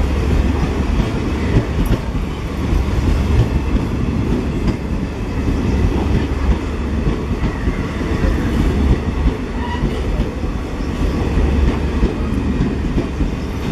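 Blue Indian Railways passenger coaches running past at speed close by: a steady, loud rumble and rattle of steel wheels on the rails.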